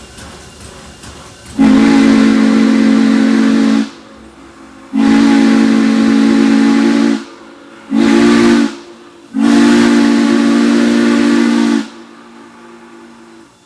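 Norfolk and Western steam locomotive's chime whistle sounding four blasts, long, long, short, long: the standard signal for approaching a grade crossing.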